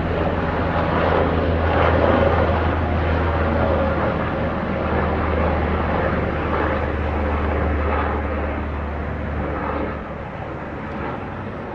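Helicopter flying past, its rotor and engine making a steady low drone that grows fainter near the end.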